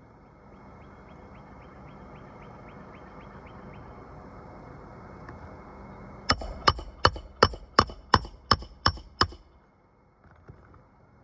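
A hammer striking about nine quick, evenly spaced blows, about three a second, then stopping, as when hand-driving a roofing nail into a shingle.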